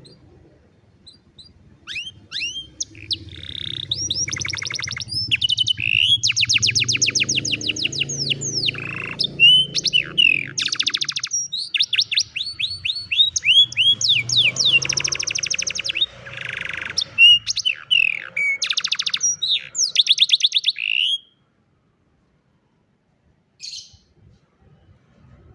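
Domestic canary singing a long song of rapid trills and quick downward-sweeping whistled notes, which stops abruptly about 21 seconds in; one short note follows a couple of seconds later.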